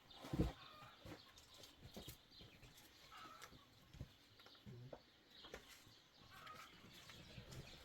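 Faint, scattered knocks and taps, with a few soft chirps, over near silence.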